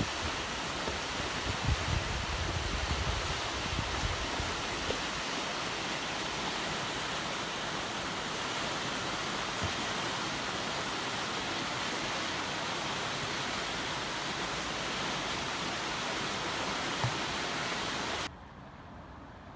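Floodwater rushing steadily, an even hiss, with some low rumbling in the first few seconds; it cuts off suddenly near the end.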